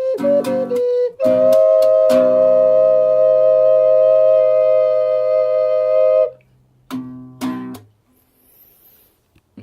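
Wooden ocarina duet with plucked guitar accompaniment playing the ending of a song. A short run of notes leads into a two-note ocarina harmony held for about five seconds. Two last guitar strums follow, then the music stops.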